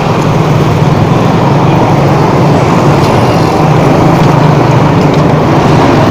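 Steady, loud motor-vehicle running and road noise, with a constant low rumble.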